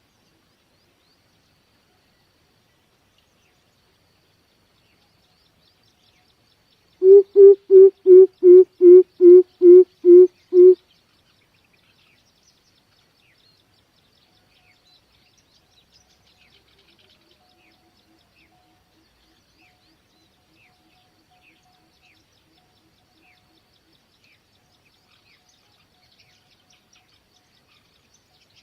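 Coucal (bìm bịp) calling: a loud run of about ten deep, evenly spaced hoots, roughly three a second, played as a lure call. Later a much fainter, longer run of low notes follows, over faint chirping of small birds.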